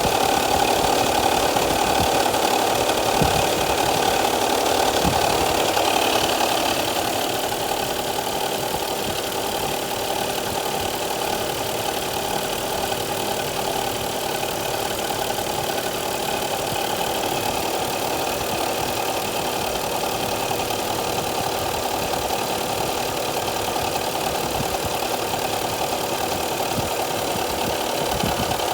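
Toyota Aristo's electric radiator cooling fan running with an abnormal noise, a steady drone that eases off slightly about seven seconds in. The noise has come back, and the owner takes it as a sign the fan is nearing the end of its life.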